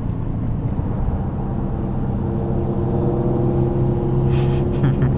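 Car engine and road noise heard from inside the cabin while driving. The engine holds a steady note at a constant cruising speed, growing slightly firmer about two seconds in.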